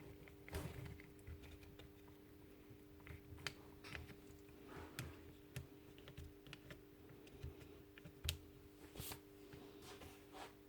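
Faint, irregular light clicks and taps of small parts being handled, over a steady low hum.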